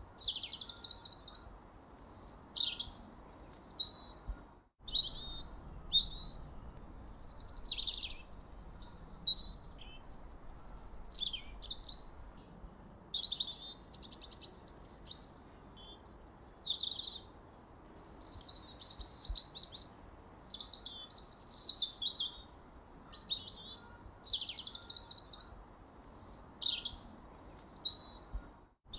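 Songbirds chirping and singing in quick, overlapping calls and trills, several at a time, over a faint low background, with a brief gap of silence about five seconds in and another just before the end.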